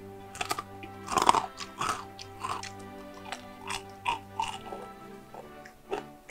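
Close-miked crunching and chewing of crispy Korean fried food (twigim). The loudest bites come about a second in and then thin out into softer chewing, over steady background music.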